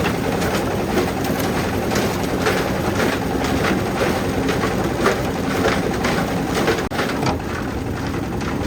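An engine running steadily under a continuous clatter and rattle, with a brief drop-out about seven seconds in.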